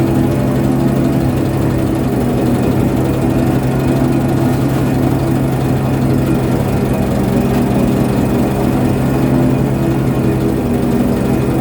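A ship's engine running steadily with a constant low drone, with no change in speed.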